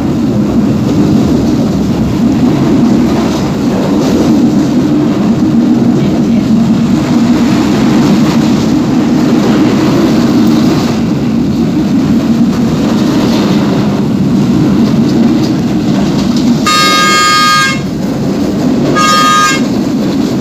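Steady rumble of a moving passenger train heard from inside the carriage, then near the end the train's horn sounds twice, a blast of about a second followed by a shorter one.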